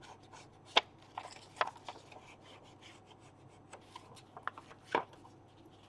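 Paper being rubbed at its edges to smudge them: a soft dry rubbing with irregular light taps and clicks, three of them sharper than the rest.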